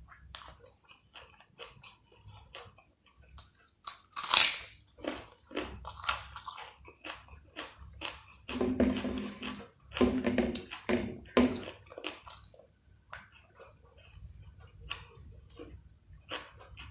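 Close-miked chewing and biting of food, a run of small wet mouth clicks. There is one loud bite about four seconds in, and a louder, denser stretch of chewing between about eight and twelve seconds.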